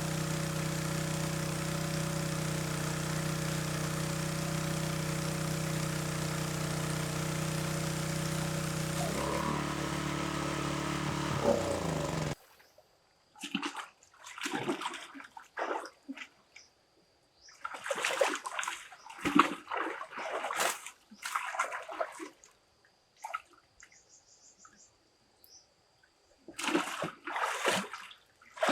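A small engine runs steadily, then slows with a falling pitch and stops about twelve seconds in. After that, water splashes and sloshes in short, irregular spells with quiet gaps between.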